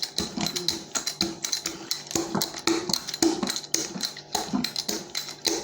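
Hands patting and pressing soft dough on a work surface: quick, uneven taps, several a second.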